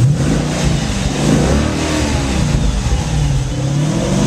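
2010 Dodge Challenger SRT8's 6.1-litre Hemi V8 being revved. The engine note jumps up suddenly at the start, then rises and falls several times with blips of the throttle.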